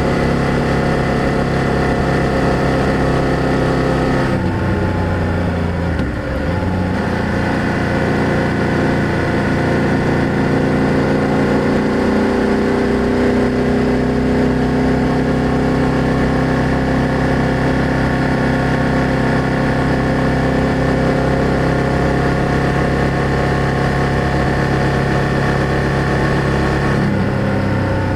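BMW F800GS motorcycle engine and exhaust running under way at steady road speed. The engine note shifts abruptly about four seconds in and again near the end, then drifts slowly in pitch.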